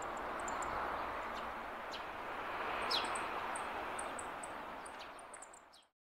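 Faint, short, high-pitched bird chirps, scattered and then more regular in the second half, with one downward-sliding note about three seconds in, over steady outdoor background noise; all of it fades out near the end.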